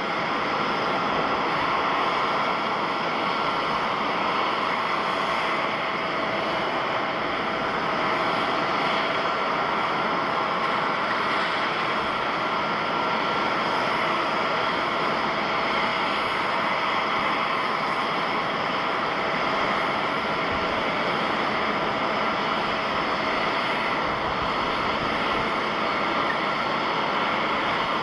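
Jet airliner's engines running steadily: a constant rushing noise with a high whine made of several steady tones.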